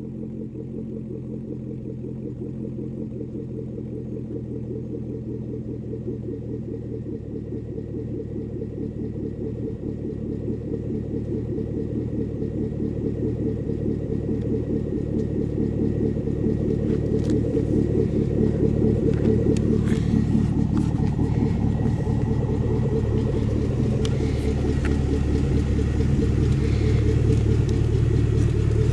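2011 Camaro SS 6.2-litre V8 running at a steady low speed through a Magnaflow Competition Series exhaust, a deep even rumble that grows steadily louder, with a few faint clicks in the second half.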